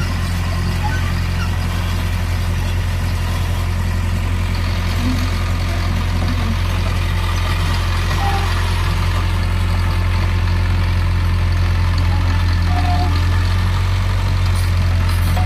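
Heavy earthmoving machine's diesel engine running steadily with a deep, even hum, getting slightly louder in the second half.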